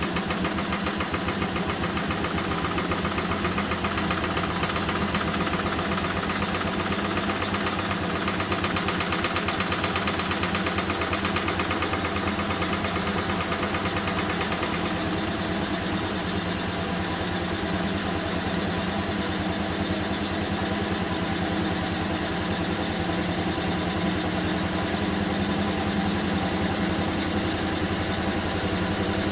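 Bosch WAN28220FF washing machine running its Synthetics 40 °C cycle: a steady motor hum with a fast, even pulsing that holds at one level throughout.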